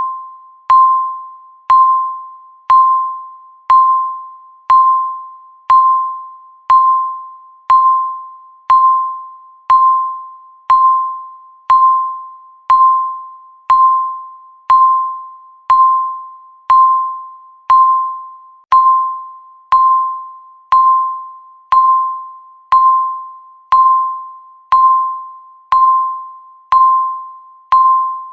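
Countdown timer's electronic beep: a single pitched, bell-like tone repeating once every second, each one starting sharply and fading away before the next.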